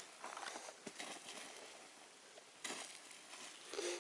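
A campfire being doused with water: faint hiss and small crackles from the wet embers, with two short louder bursts of spray-like noise, one a little under three seconds in and one near the end.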